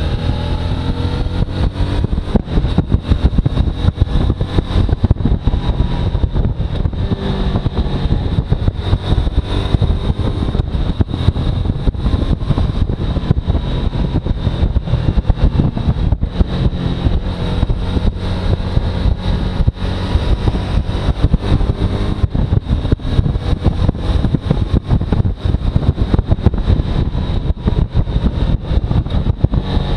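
Suzuki V-Strom motorcycle engine running steadily on the move, with rough wind noise buffeting the microphone.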